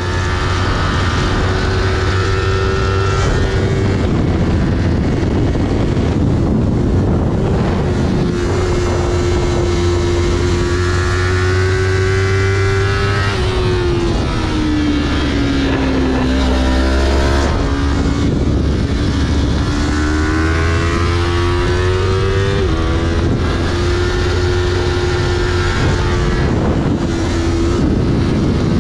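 Yamaha R3's 321 cc parallel-twin engine running hard at high revs, heard onboard over heavy wind rush. The revs hold steady, drop about halfway through as the bike slows for a corner, then climb again in a string of quick upshifts.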